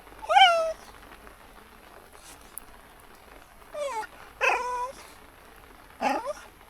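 Jack Russell Terrier whining in four short high cries, the first one loudest and falling in pitch. It is the impatient whining of a dog made to sit and wait, which the owner hushes as noise.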